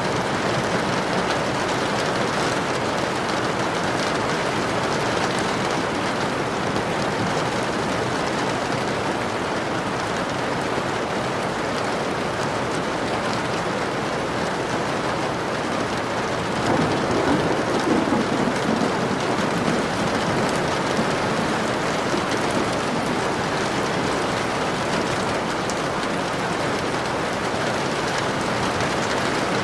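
Steady rain ambience, an even hiss, with a brief low rumble about seventeen seconds in.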